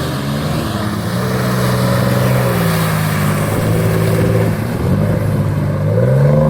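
Off-road 4x4 engine running hard, its revs rising and falling several times, as in working through gears or over rough ground.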